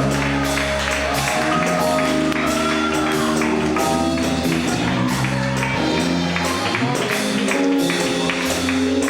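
Live gospel music: a band plays held chords over a bass line, with a tambourine shaking on a steady beat.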